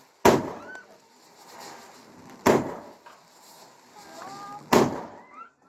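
Fireworks exploding: three loud bangs a little over two seconds apart, each trailing off in a short echo.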